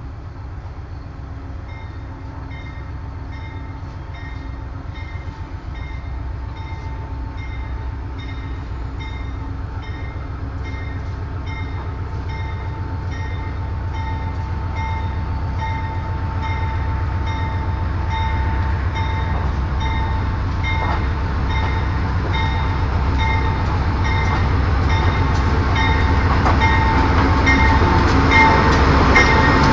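Diesel passenger train pulling into the station, its rumble growing steadily louder as it approaches. A bell rings over it in an even, repeated rhythm that also grows louder.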